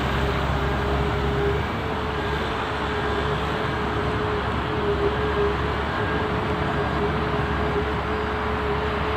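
Särkänniemi Tornado roller coaster in operation on a test run: a steady mechanical noise with a constant humming tone throughout. A lower hum drops away about two seconds in.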